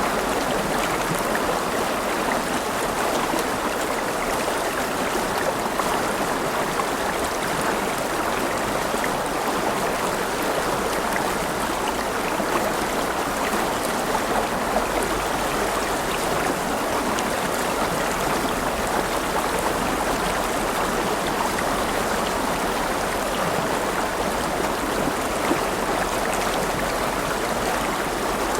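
River flowing: a steady, continuous rush of running water.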